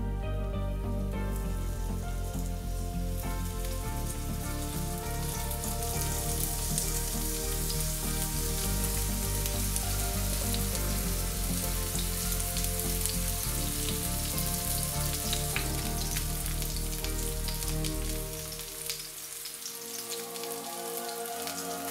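Aubergine slices sizzling in hot oil in a non-stick frying pan, a steady hiss with many small pops that builds after the first few seconds. Background music plays over it and fades out near the end, leaving the sizzle.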